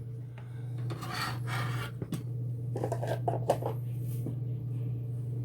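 Rubbing and scraping handling sounds in a kitchen, in short spells about a second in and again about three seconds in, over a steady low hum.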